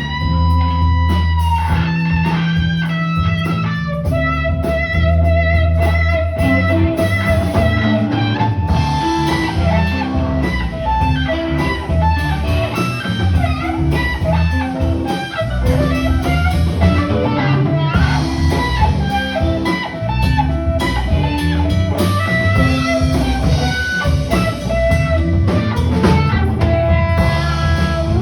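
Live blues-style band music led by electric guitar with bent and sustained lead notes over bass and drums.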